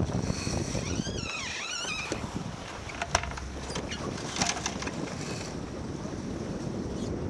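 Wind on the microphone and water noise aboard a sailboat under way. About a second in there is a brief wavering squeal, and a few seconds later two sharp clicks.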